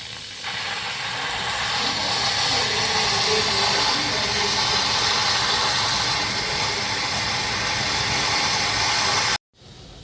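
Electric pressure cooker venting steam through its release valve as it depressurises after cooking: a steady, loud hiss that cuts off abruptly near the end.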